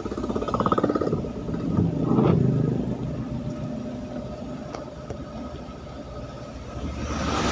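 Road traffic passing: a heavy vehicle's engine with a fast, even pulsing rumble at first, a louder pass about two seconds in, then a steady low rumble.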